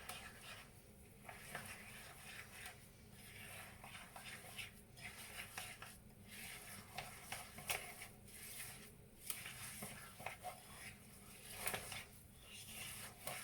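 Spoon stirring plain flour into a thick, stiffening fat-ball mixture in a bowl: faint, irregular scraping and ticking.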